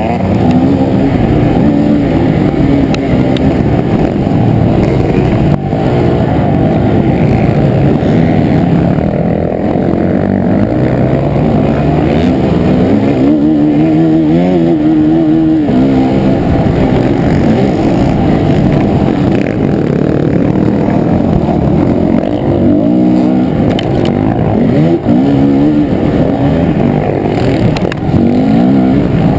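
Motocross dirt bike engine under race load, heard muffled from a camera on the bike, revving up through each gear and dropping back again and again.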